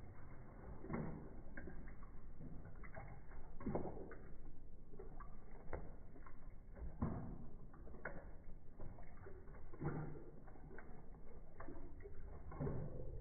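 A dog lapping water, slowed down: irregular, widely spaced slurps and knocks, low-pitched and drawn out.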